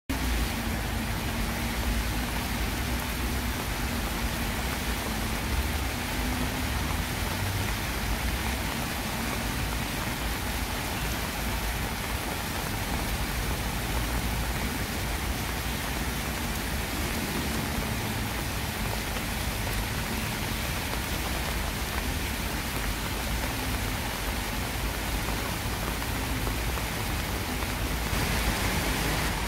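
Heavy rain falling steadily on a paved path and the grass beside it: a constant, even hiss.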